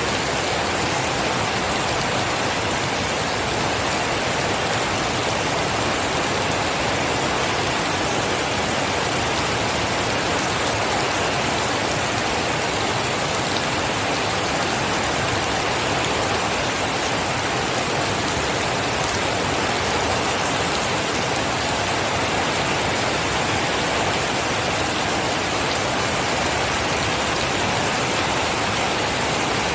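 Steady, heavy rainfall, an even dense hiss of rain on surfaces with no thunder or other events.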